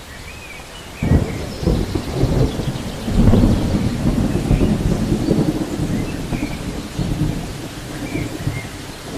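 Thunder rumbling, breaking in suddenly about a second in and rolling on unevenly, over the steady hiss of rain.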